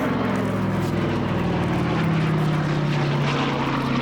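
Vintage piston-engined propeller airliner flying past, its engine drone sliding slightly lower in pitch as it goes by.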